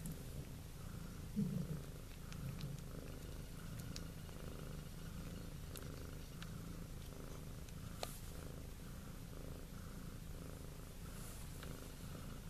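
A domestic cat purring steadily, in an even, pulsing rhythm.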